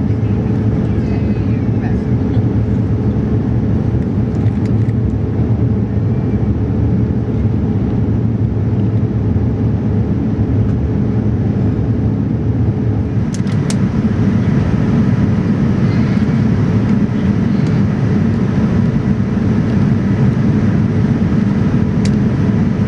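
Steady in-flight cabin noise of a Boeing 787-9 airliner: a low rush of engines and airflow with a faint steady hum, and a couple of sharp clicks in the second half.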